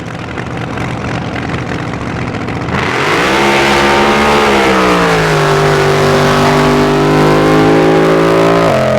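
Drag boat's racing engine at full power on a run: the sound builds, jumps sharply louder about three seconds in, then holds a loud, steady high-revving note before its pitch drops suddenly near the end.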